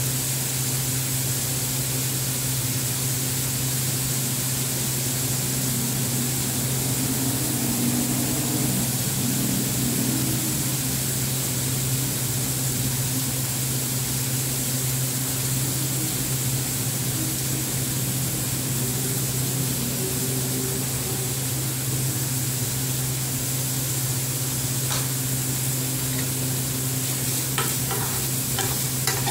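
Chopped onions sizzling steadily in hot oil in a frying pan. Near the end a spoon stirs them, clinking and scraping against the pan a few times.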